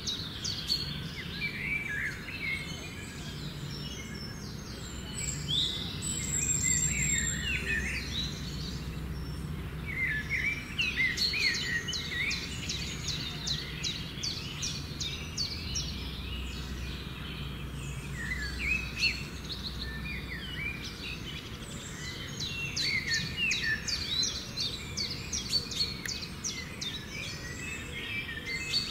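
Many birds chirping and calling in rainforest, with short repeated chirps and trills coming in clusters, over a steady low hum.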